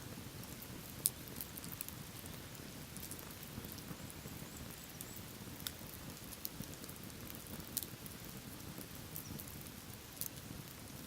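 Wood fire crackling: sharp, irregular pops and snaps over a steady low rush, the loudest pop about a second in.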